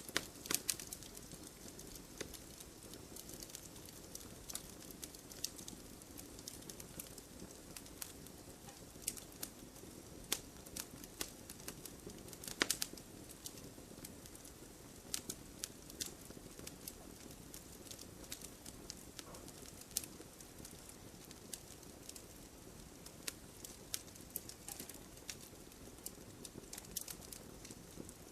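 Wood fire burning in a fireplace: logs crackling with irregular sharp pops over a soft steady rush, one pop louder about halfway through.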